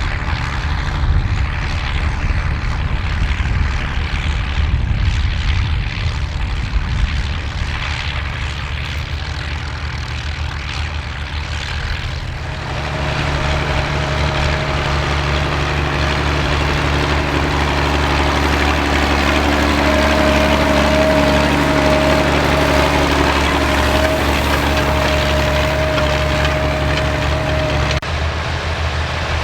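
Vintage Ford-built tractor engines running steadily while cultivating. About twelve seconds in the sound changes abruptly to a smoother, even engine note, and a thin high whine runs over it in the second half.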